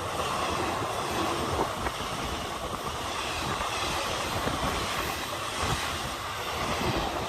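An express passenger train running past at speed: a steady, continuous noise of wheels on the track.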